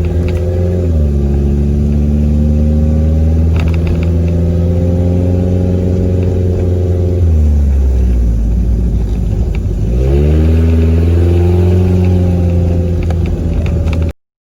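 Classic Fiat 500's air-cooled two-cylinder engine running through a homemade RPM-style exhaust while driving. The revs drop about a second in and again around seven seconds, then climb and settle after about ten seconds. The sound cuts off suddenly near the end.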